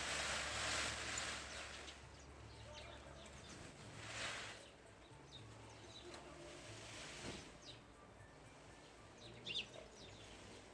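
Birds chirping now and then, short high calls over a soft background hiss, with a sharper chirp near the end; the hiss swells in the first second or two and again about four seconds in.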